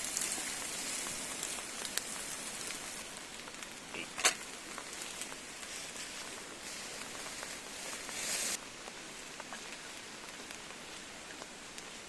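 Food sizzling in a pan over a campfire: a steady hiss with scattered crackles, a sharp click about four seconds in and a brief louder spell near eight seconds.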